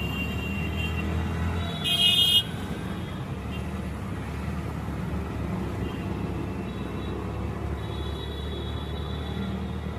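Road traffic with a steady low rumble of engines; a vehicle horn sounds briefly about two seconds in, the loudest moment, and a fainter horn-like tone is heard near the end.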